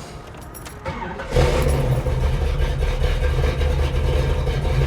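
1975 Pontiac Trans Am's 455 V8 with headers cold-started without pumping the throttle. It cranks briefly, catches about a second and a half in, and then runs with a steady, loud, low rumble.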